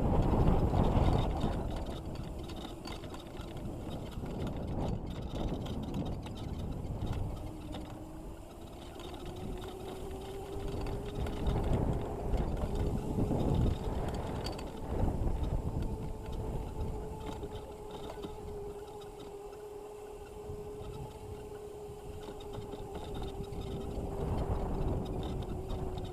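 Razor MX650 electric dirt bike running, its motor giving a steady whine that climbs a little in pitch about a third of the way in and then holds, over a low rumbling of wind and terrain.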